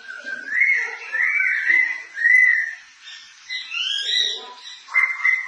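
White-crested laughingthrush singing: a run of clear whistled notes sliding up and down, a few higher rising notes about four seconds in, then a quick chattering series of notes near the end.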